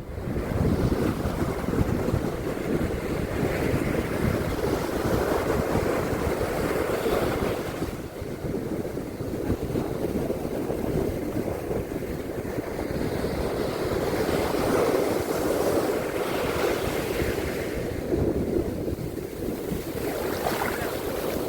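Surf washing onto a beach: a continuous rush of waves that swells and eases every few seconds, with wind rumbling on the microphone.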